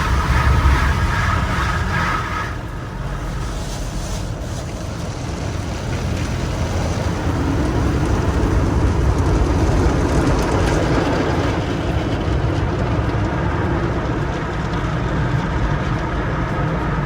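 Automated tunnel car wash heard from inside the car: a steady rush of water spray and machinery working over the car body. It drops a little about two seconds in and builds again through the middle.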